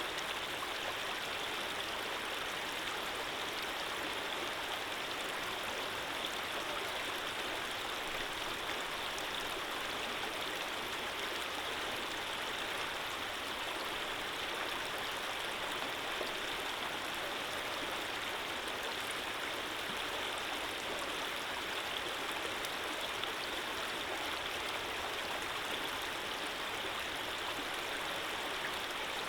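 Running water flowing steadily, a continuous even rush with no distinct splashes or changes.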